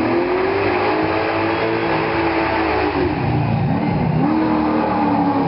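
Hot rod's engine revved up and held at high revs, dropping off about halfway through, then revved up again and held.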